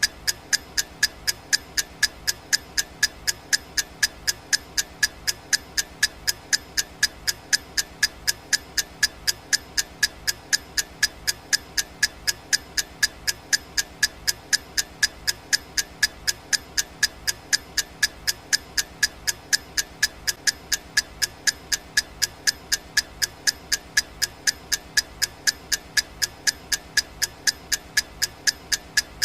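Clock ticking sound effect: steady, evenly spaced ticks at about two a second.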